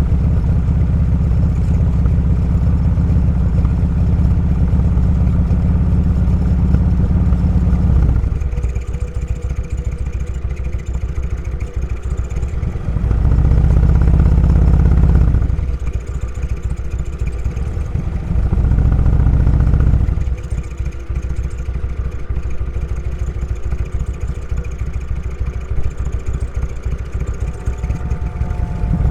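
Motorcycle engine running steadily under throttle, then easing off about eight seconds in. Two short surges of throttle follow a few seconds apart, each lasting two or three seconds, with lighter running between and after them.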